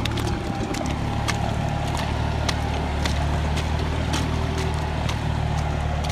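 Deutz-Fahr 4055 tractor's diesel engine running steadily under way, with scattered sharp clicks and knocks over the engine note.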